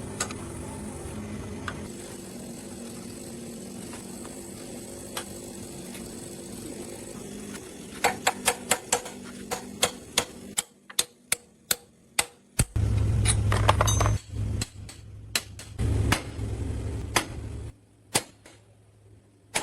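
A steady low hum, then a quick run of sharp metal strikes, several a second, as a hammer is struck on steel. About halfway through, a loud low hum begins, cutting in and out in blocks, with a few more strikes among it.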